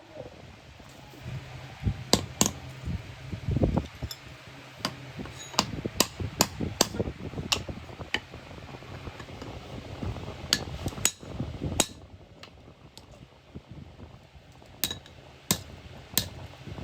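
Irregular sharp metallic knocks and clinks of tools striking and handling iron workpieces, a couple of dozen spread unevenly, over a low steady hum.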